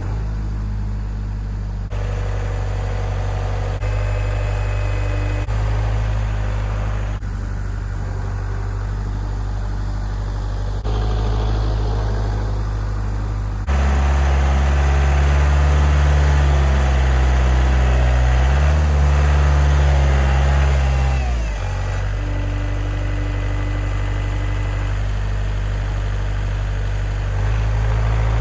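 Kubota compact tractor's diesel engine running steadily, then louder and at higher revs for several seconds midway before settling back, with its loudness changing in sudden steps.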